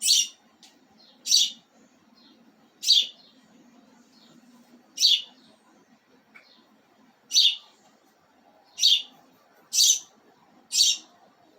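A pet bird chirping: eight short, loud, high-pitched chirps spaced unevenly, about one every one to two seconds.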